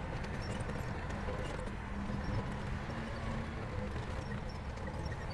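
SHANTUI crawler bulldozer's diesel engine running steadily under load, a low even rumble with faint scattered clicks and clanks over it.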